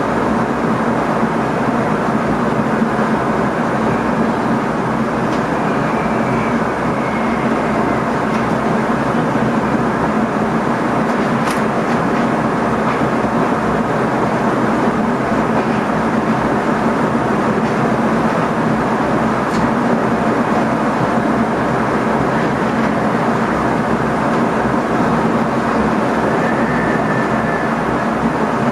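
Steady running noise inside the driver's cab of an NS ICM (Koploper) electric multiple unit moving along the track, with a low steady hum throughout. Two faint brief high squeals, about six seconds in and near the end, and two sharp clicks, near the middle and about two thirds through.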